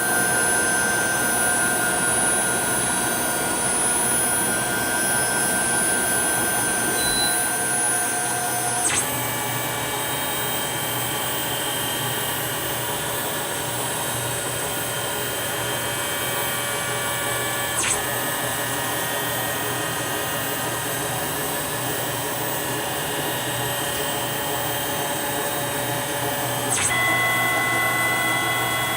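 Tormach 15L Slant-Pro CNC lathe spindle running a warm-up program to bring it up to temperature: a steady whine of several tones that shifts abruptly to a new set of tones three times, about every nine seconds, as the program steps the spindle speed.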